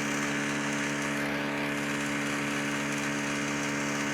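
Greenworks Pro 3000 PSI electric pressure washer running with a steady hum.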